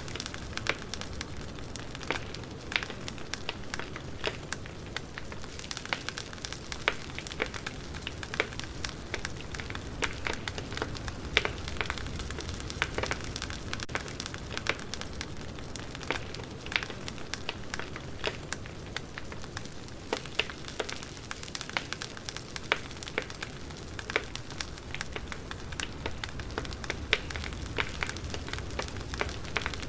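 Campfire burning with irregular sharp crackles and pops over a steady low rush of flames.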